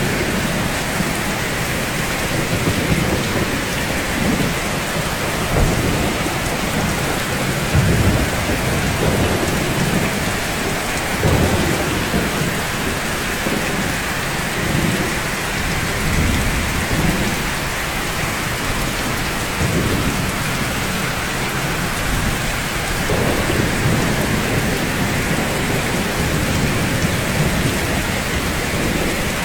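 Steady rain falling on rooftops, an even hiss, with low rumbles swelling and fading beneath it every few seconds.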